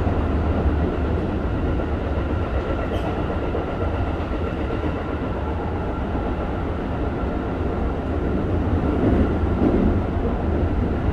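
Keikyu 1000 series electric train with Toyo IGBT-VVVF control running steadily, heard from inside the passenger car: the rumble of wheels on track under a steady high tone, a little louder about nine seconds in.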